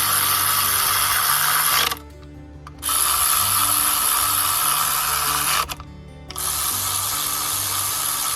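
A power tool, most likely driving bolts, runs in three long bursts of about three seconds each with short pauses between them, over background music.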